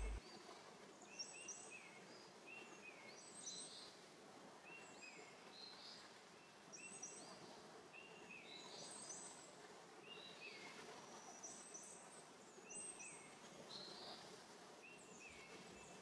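Faint, repeated short bird chirps, about one or two a second, over a low steady hiss.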